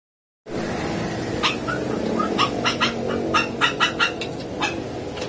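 Short, high animal calls, a dozen or so quick chirps, over a steady low rumble. The sound starts abruptly about half a second in, after dead silence.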